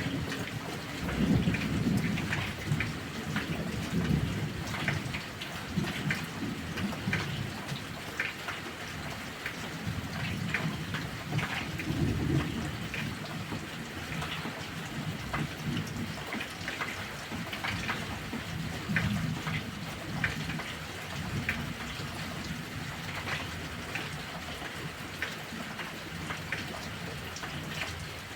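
Heavy rain falling steadily, with sharp drip and splash ticks, under low rolling thunder that swells several times, loudest in the first few seconds.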